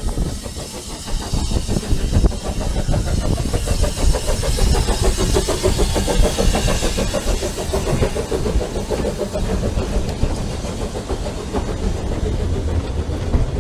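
Narrow-gauge steam train pulling out, its carriages rolling past close by: a steady rumble with rapid wheel clatter on the rails.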